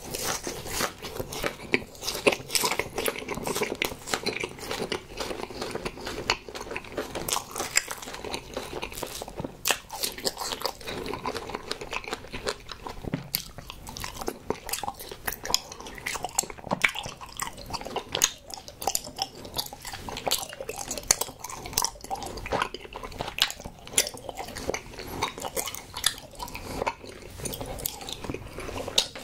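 Close-miked biting and chewing of strawberry sweets: a dense, irregular run of crackling, clicking mouth sounds.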